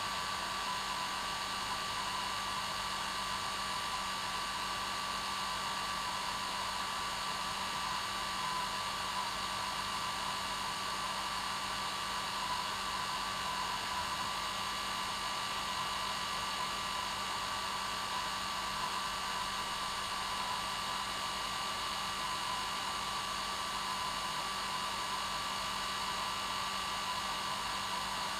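Hair dryer running steadily: a constant rush of blown air with an unchanging motor whine.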